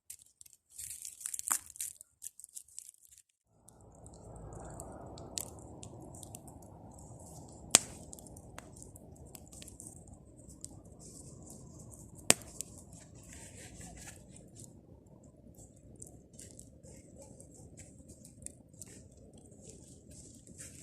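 Bonfire of pruned tree branches crackling, with fine pops throughout and two sharp loud snaps. About three and a half seconds in, a steady low rushing sound sets in under the crackle.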